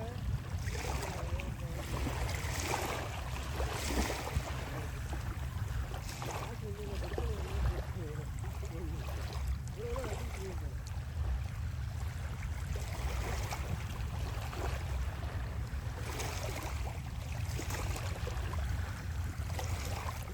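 Sea waves washing on the shore, the hiss of the surf swelling and falling back every second or two, over a steady low rumble.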